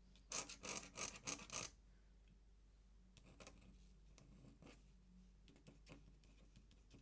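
Ink pen scratching on paper in a quick run of short strokes lasting about a second and a half, then only a few faint, light touches.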